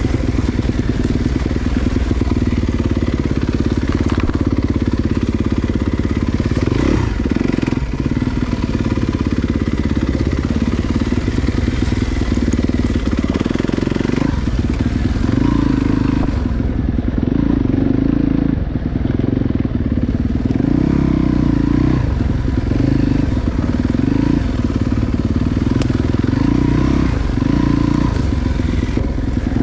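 Dirt bike engine running under changing throttle, the note swelling and dropping back every second or two as the throttle is opened and closed.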